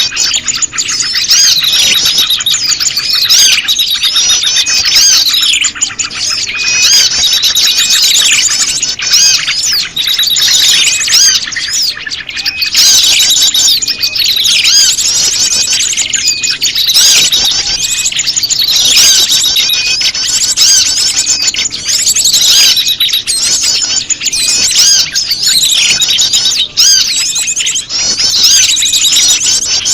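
Bird-lure recording of prenjak lumut calls mixed with a chorus of other small songbirds. Many high-pitched chirps and quick trills overlap densely and without pause.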